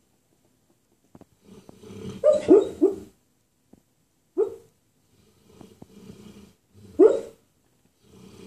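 Presa Canario barking in his sleep while dreaming: three short barks close together about two seconds in, then single barks at about four and a half and seven seconds, with snoring breaths between them.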